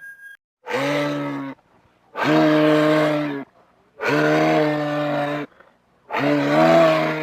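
Four low, drawn-out bellowing calls from a large hoofed animal, each about a second long with short pauses between them, used as a creature sound effect.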